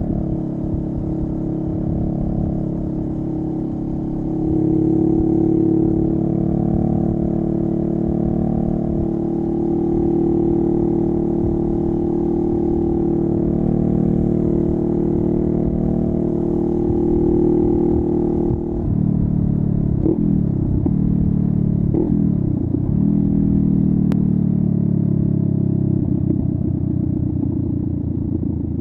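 Honda Rebel 500's parallel-twin engine through a Vance and Hines upsweep exhaust, running steadily under way. About two-thirds through, the engine note drops off, then the revs dip and climb twice in quick succession before settling again.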